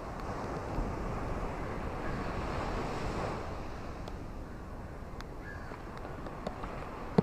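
Ocean waves washing onto a shore, one swell building about a second in and easing off after about three seconds, with a few faint short ticks in the second half.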